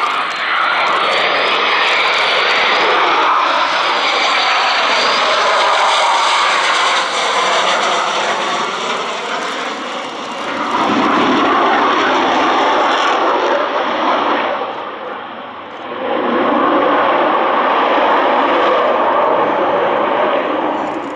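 Military jet aircraft engine noise, loud and continuous, with a faint high whine wavering in the first five seconds. The sound eases briefly twice, about ten and fifteen seconds in.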